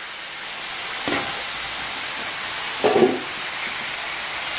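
Boiled, drained raw banana slices sizzling steadily in hot oil in a heavy kadai, with two knocks against the pan, a light one about a second in and a louder one about three seconds in.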